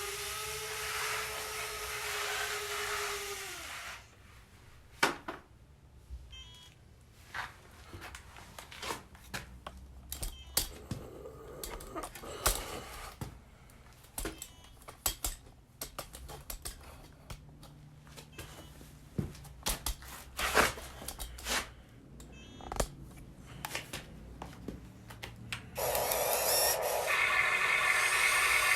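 Radio-controlled construction model at work: a small motor whines steadily for the first few seconds and then stops. Scattered clacks and knocks of the model's parts and material follow, and a louder motor whine starts near the end.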